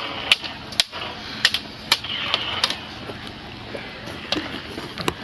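A series of sharp, irregular clicks and taps, roughly two a second, over a faint hiss.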